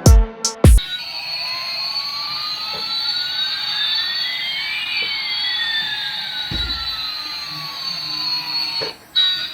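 A few heavy electronic drum hits, then a steady jet-like whooshing hiss with one whistle rising and another falling so that they cross midway, and a single low thud partway through. The whoosh cuts off suddenly near the end.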